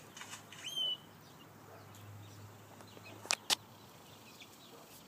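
A single short, high bird chirp falling in pitch about a second in, then two sharp clicks a little after three seconds, over quiet outdoor background.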